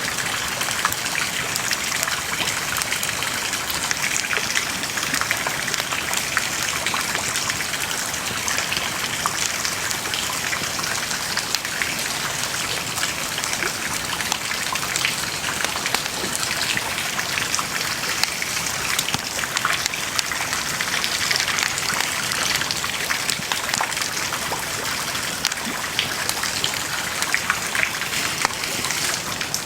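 Wood bonfire burning: a steady hiss with frequent small crackles and pops.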